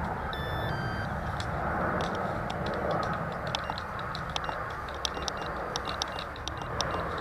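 Steady wind noise on the microphone, with a string of short electronic beeps and key clicks from a Walkera DEVO 10 radio transmitter being programmed, the gyro setting being changed.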